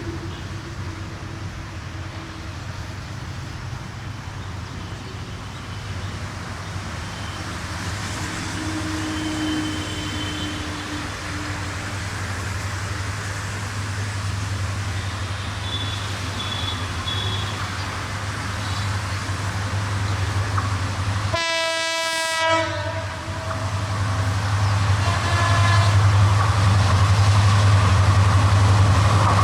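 Diesel locomotive approaching, its low engine drone growing steadily louder. About three quarters of the way through, it gives one short horn blast lasting about a second.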